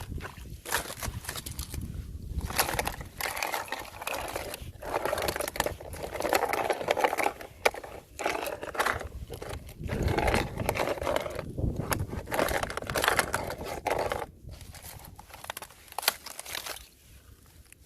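Fresh thin ice crunching, crackling and scraping as it is stepped on and broken, in uneven bursts that die down about two-thirds of the way through.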